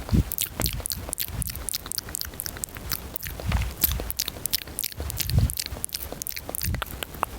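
Fast, close-miked ASMR mouth sounds: a rapid stream of wet clicks and smacks, with a few low puffs of breath on the microphone.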